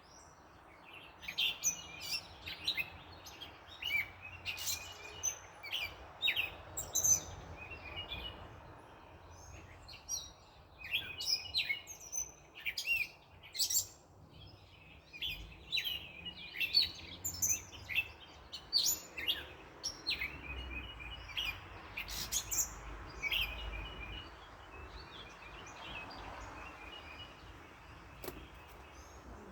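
Several small birds chirping and calling in quick, overlapping bursts, over a faint steady background hum.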